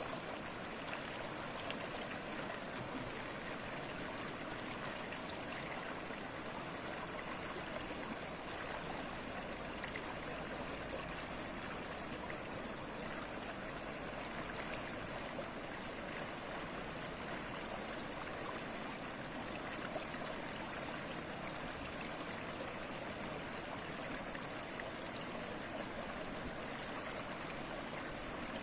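Babbling stream: water flowing and trickling at a steady, even level.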